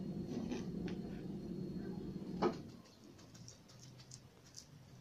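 Granulated sugar being sprinkled over raw yeast dough, a light patter of falling grains. A low steady hum underneath stops with a single knock about two and a half seconds in.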